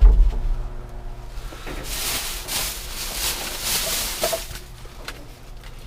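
A low thump, then about two and a half seconds of rustling, the sound of salvaged items and bags being handled.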